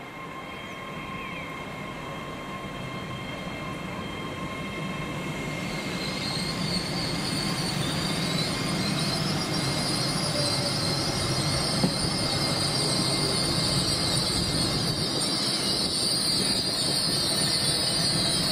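LNER Class 800 Azuma train drawing slowly alongside the platform, its running noise rising steadily as it nears. A high, steady squeal from the wheels sets in about six seconds in and grows louder.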